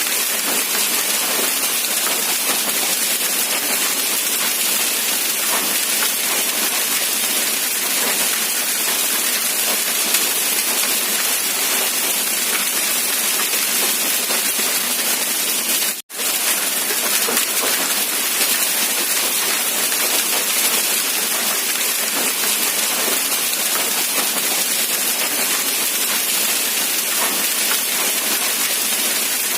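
Steady hiss of falling rain, cutting out for a split second about halfway through.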